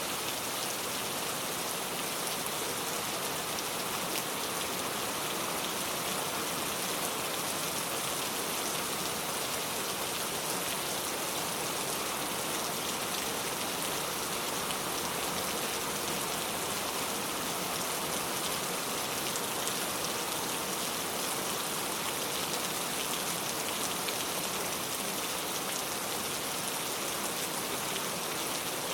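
Steady rain falling, an even hiss that holds level with no breaks.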